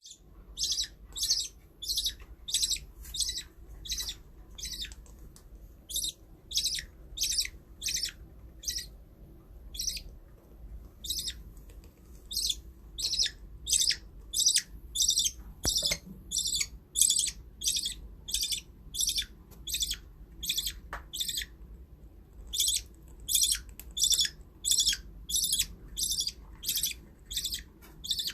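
Budgerigar giving short, high chirping calls over and over, about two a second, with a few brief pauses.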